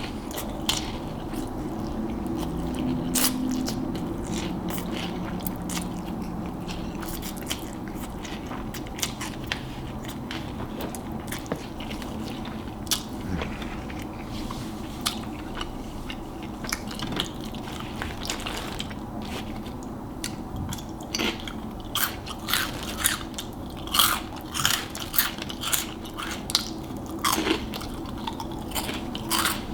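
Close-miked chewing of Hot Cheetos noodles: crunching and wet mouth clicks, growing louder and more frequent in the last third.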